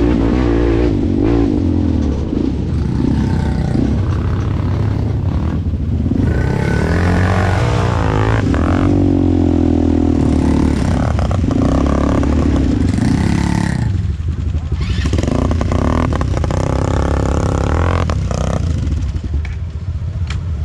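ATV engine running while being ridden, its pitch rising and falling as the throttle is opened and eased off.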